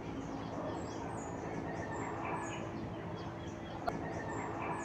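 Quiet room with a steady low hum, over which a small bird gives a run of short, high, falling chirps. There is a single sharp click just before four seconds in.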